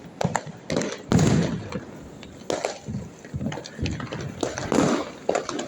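Fireworks going off: a loud bang about a second in that trails off, scattered sharp pops and crackles, and another bang near the end.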